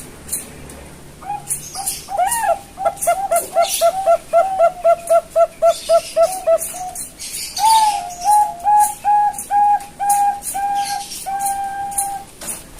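Young Bangkok-strain zebra dove (perkutut) cooing. First comes a fast run of about a dozen short coos, about three a second, then a slower run of longer coos ending in one held note.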